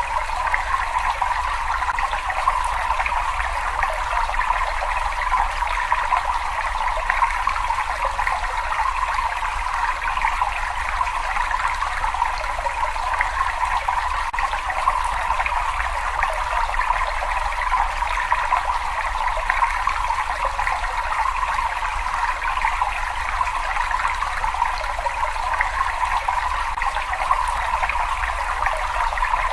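Running water in a cave, a steady trickling, splashing rush that does not change, with a faint low rumble beneath.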